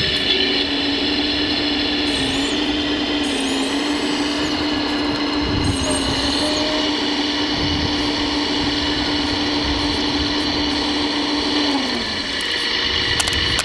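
Electric motor and hydraulic pump of a radio-controlled model construction machine running with a steady whine. Near the end the whine drops in pitch and fades.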